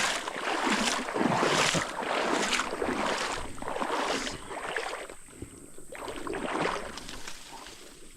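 Water and small-boat noise on a creek, a series of swishes about once a second that fade after about five seconds.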